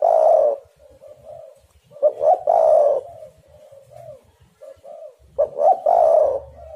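Spotted dove (tekukur) cooing: three loud cooing phrases about two and a half seconds apart, with softer coos between them.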